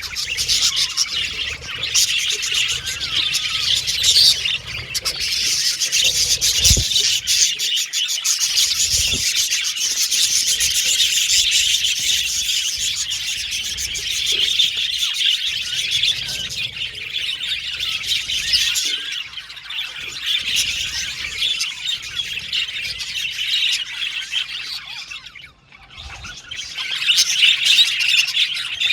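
A group of budgerigars chirping and warbling in a continuous, busy chatter. It eases off briefly near the end, then picks up again.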